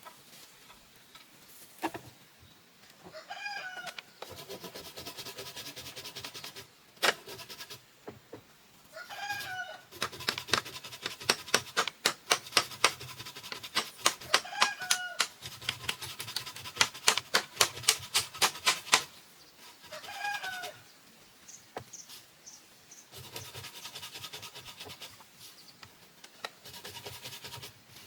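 A chicken calls about every five seconds, each call short and rising then falling. Between the calls there are stretches of steady rasping noise. In the middle there is a run of sharp knocks, about two a second, loudest of all, which fit work on the bamboo.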